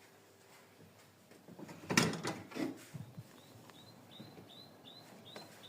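A bird chirping over and over, short high chirps about two to three a second, starting a little past halfway. They follow a loud knock or rustle about two seconds in.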